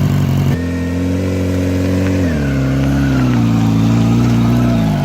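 Motorcycle engine running at steady revs, then dropping to a lower pitch a little over two seconds in.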